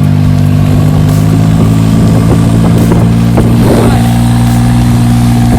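A boat's engine running steadily and loudly at a constant speed.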